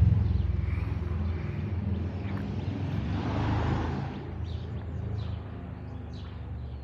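Boeing 747-8 airliner's four jet engines rumbling as it passes overhead. The deep rumble fades steadily as the plane draws away, with a brief swell of hiss in the middle.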